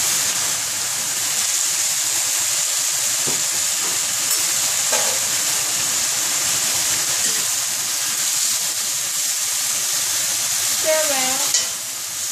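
Napa cabbage leaves frying in a hot cast-iron skillet: a steady sizzling hiss, with a spatula stirring and tossing the leaves. One sharper knock near the end.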